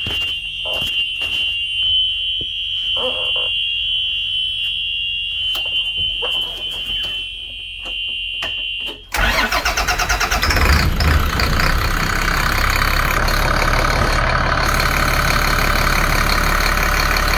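A Cat C7 inline-six diesel engine cranking with a steady high-pitched warning buzzer sounding. About nine seconds in it fires; the buzzer cuts off at that moment and the engine settles into a steady idle.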